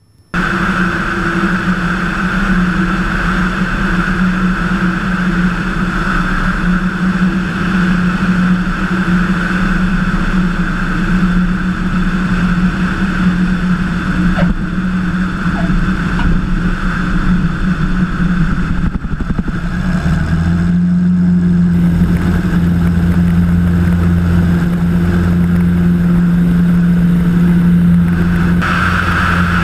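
Single-engine Cessna 177 Cardinal's piston engine and propeller droning steadily in cruise, heard from inside the cabin. About twenty seconds in the drone's tone shifts, with the low end growing stronger.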